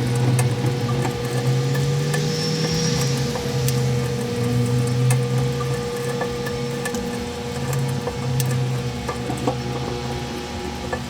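Microwave oven running with a steady hum, the lower part of the hum dropping in and out, and scattered sharp ticks and crackles from the bag inside.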